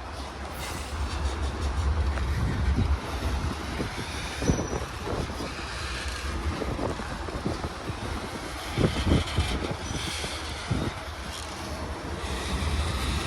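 Union Pacific train rolling past: a steady low rumble with irregular knocks and clatter from the wheels and cars.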